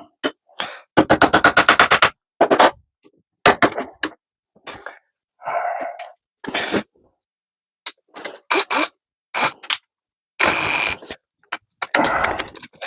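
Hand tools working a small metal part: irregular sharp taps, clicks and scrapes. About a second in there is a quick run of roughly ten taps within a second, and there are a few longer scraping stretches.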